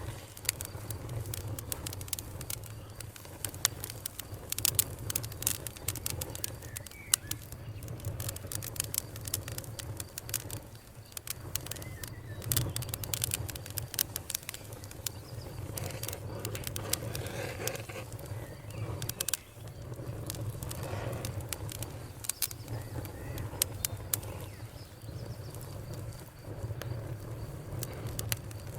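Fire crackling: irregular sharp pops and snaps, some loud, over a steady low rumble.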